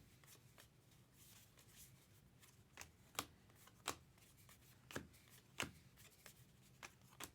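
Trading cards being flipped through and set down by hand: faint soft clicks and snaps, about seven spread irregularly over the last few seconds, over quiet room tone.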